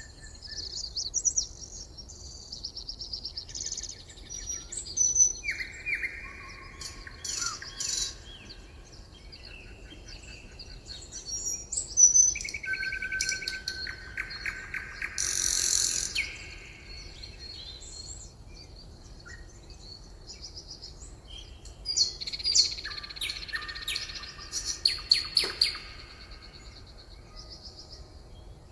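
Several songbirds singing and calling at once: overlapping rapid trills and short chirps in bursts, with quieter gaps between them.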